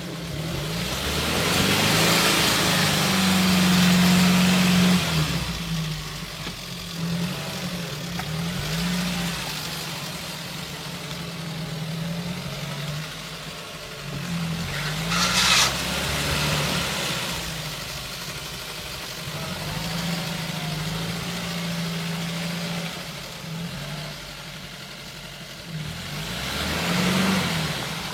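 An engine running and being revved, its pitch rising and falling, with louder swells near the start and near the end. A short sharp hiss sounds about halfway through.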